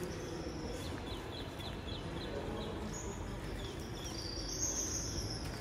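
A small bird chirping a quick run of short high notes about a second in, with a couple more a little later, over steady outdoor background noise.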